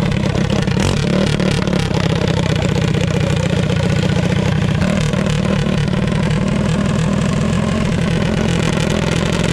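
Minibike engine running steadily, with a rapid pulsing exhaust note.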